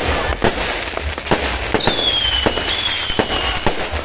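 Fireworks going off in rapid, overlapping bangs and pops, with a high whistle that starts about two seconds in and slides slightly downward for nearly two seconds.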